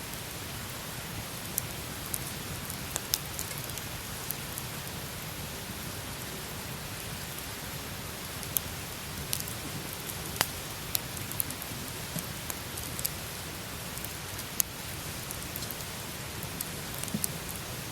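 Wood campfire burning: a steady hiss with irregular sharp crackles and pops, the loudest pop about ten seconds in.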